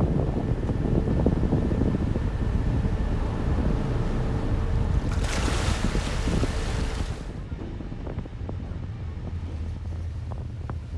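Harbour ferry underway: engine drone with wind buffeting the microphone and water noise, and a rush of hiss about five seconds in. After about seven seconds the wind drops away and a steady low engine hum remains.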